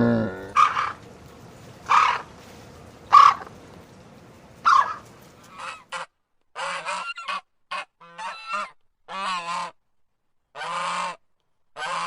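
Animal calls: four loud honking calls about a second apart, then a quicker run of shorter calls broken by short silent gaps.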